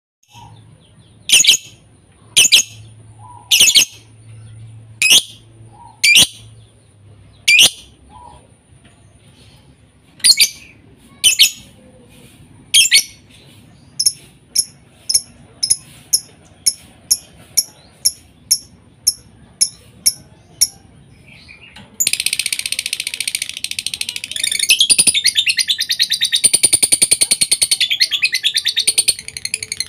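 Lovebirds calling: loud, sharp single calls about a second apart, then a quicker, even run of shorter calls, then, about two-thirds through, a dense continuous chattering trill.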